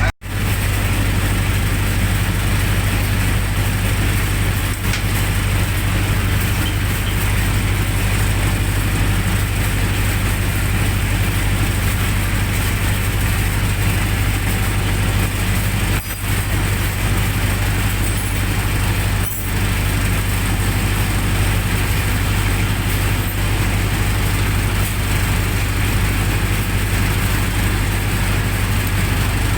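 Generator set's engine running steadily.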